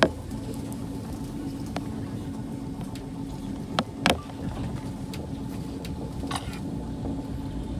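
Eizan Electric Railway train running, heard from inside the car: a steady rumble with a constant low hum. Sharp clicks break through, a loud one at the start and two close together about four seconds in.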